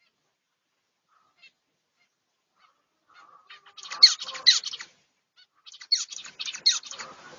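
Finches chirping: after a near-silent start, two bouts of quick, high chirps, the first about three and a half seconds in and the second about six seconds in.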